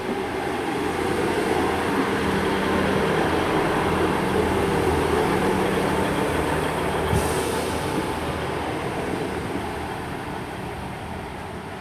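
Class 158 diesel multiple unit running into the platform: engine hum and wheel-on-rail rumble that swells then slowly fades as it draws to a stop, with a short hiss about seven seconds in.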